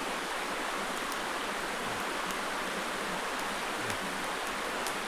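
A creek flowing over rocks, a steady, even rush of water.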